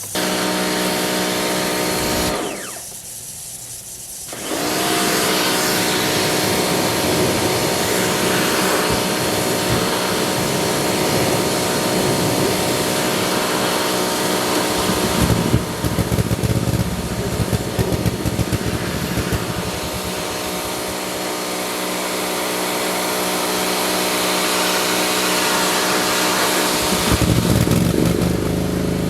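Small gasoline engine of a lawn tool running at speed, dropping off briefly about two seconds in and then coming back up. For a few seconds in the middle it sounds choppy and uneven as it works through weeds.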